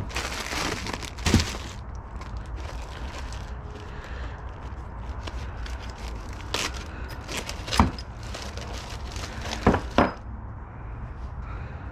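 Plastic parts bag crinkling and rustling as removed bolts are bagged, with a few sharp clicks and knocks; the loudest come about a second in, near 8 seconds and twice near 10 seconds.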